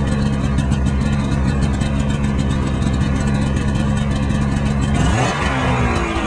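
Polaris RMK 600 snowmobile's two-stroke twin idling steadily, then a short throttle blip about five seconds in, the pitch rising and dropping back.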